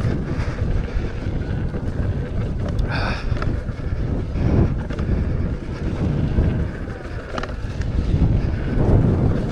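Wind buffeting the microphone while riding an electric unicycle down a dirt trail: a steady low rumble with a few faint knocks.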